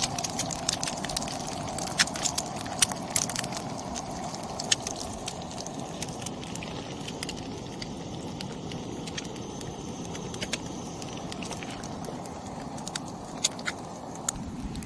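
Egg frying in a pan over a portable gas burner: a steady sizzle with many sharp pops and spatters.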